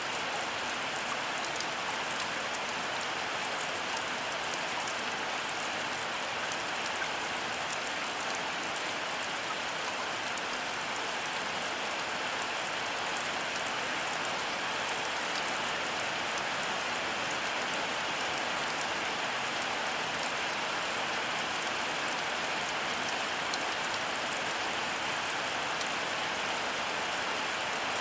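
Heavy rain falling steadily: an even, dense hiss of rain with fine drop ticks, unchanging throughout.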